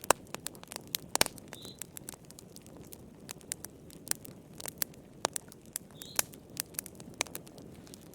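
Wood fire crackling: irregular sharp pops and snaps, several a second and some louder than others, over a soft low rumble of the flames. Two short, faint high chirps come about a second and a half in and again about six seconds in.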